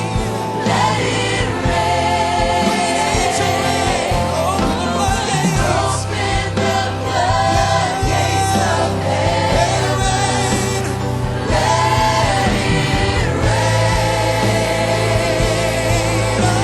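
Gospel worship song played by a live band, with a choir and lead voices singing.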